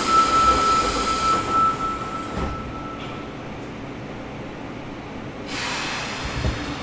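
Sendai Subway 1000N series door buzzer sounding as a thin, high, steady whine for about three seconds while the doors close, over a hiss, with a low thud as they shut. A burst of hissing follows near the end.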